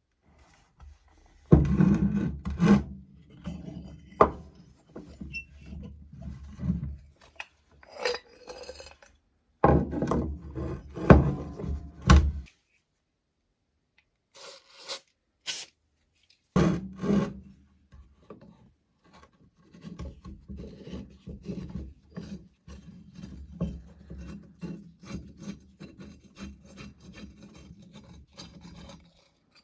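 Hand rubbing and rasping strokes on rusty metal, in several separate spells with a few clicks during a pause, then a long run of quick, even strokes in the second half.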